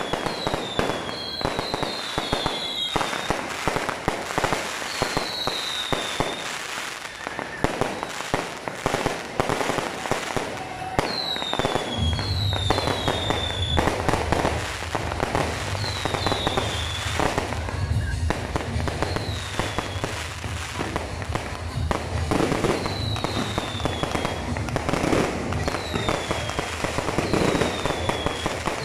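Aerial fireworks display: dense crackling and popping of bursting shells, with short falling whistles every second or two. A low steady hum joins underneath about twelve seconds in.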